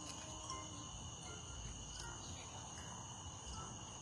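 Crickets trilling in a steady chorus of high tones, with a couple of faint, distant firecracker pops, about half a second in and about two seconds in.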